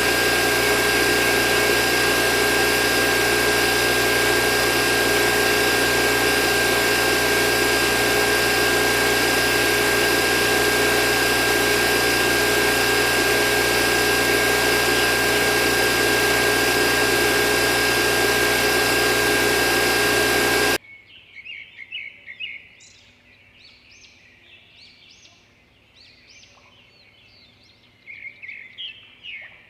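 A small electric motor runs loudly and steadily with a constant whine, then cuts off suddenly. Birds chirp in the quiet that follows.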